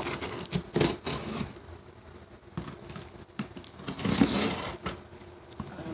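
Cardboard shipping box being opened by hand, with a few sharp knocks at first and then a longer scraping, tearing sound about four seconds in.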